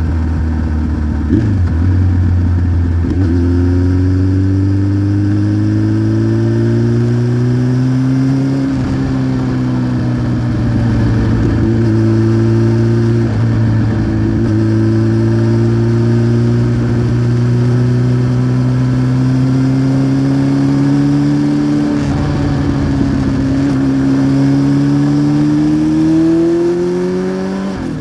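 1993 Honda CBR900RR Fireblade's inline-four running through a Remus aftermarket exhaust under way. The engine note climbs slowly, with a few brief dips, then rises more steeply near the end.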